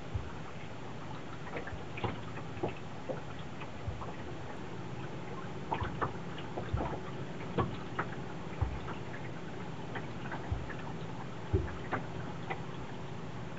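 Irregular light knocks and ticks aboard a small sailboat, a few each second, over a steady low rumble.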